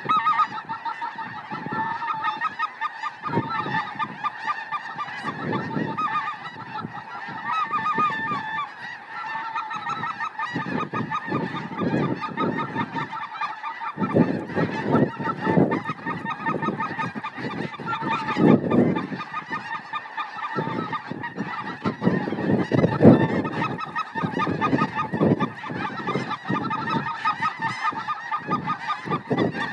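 A huge flock of snow geese and white-fronted geese (specklebellies) calling nonstop, a dense chorus of overlapping honks. Irregular low rumbles come and go beneath it.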